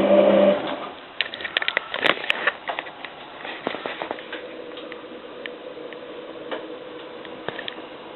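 Hotpoint 9534A washing machine during a boil wash: a motor hum cuts off about half a second in, then irregular clicks and patter of water and wet laundry in the drum, thinning out, over a faint steady hum.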